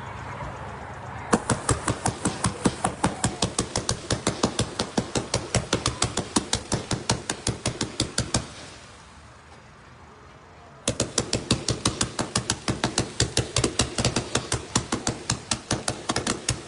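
A 132-shot sprinkler firework cake firing: a rapid string of launch pops, about six a second, starting about a second in. It pauses for about two seconds past the middle, then fires again.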